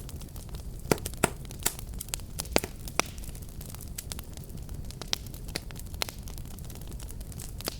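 Fire crackling: many irregular sharp pops and snaps, a few louder than the rest, over a steady low rumble of burning.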